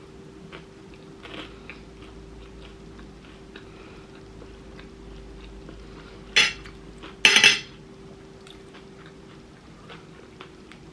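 Eating at a plate: faint chewing and small clicks, then a utensil knocks and scrapes against the plate twice, loudly, about six and a half and seven and a half seconds in.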